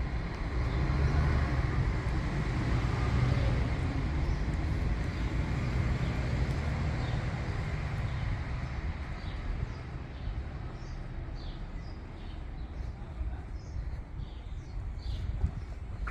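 City street traffic: a vehicle's engine and tyres rumbling past, loudest in the first half, then easing to a lower background hum.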